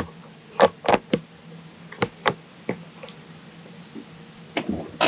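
A series of sharp, irregularly spaced clicks and knocks, about a dozen in all, over a faint low hum.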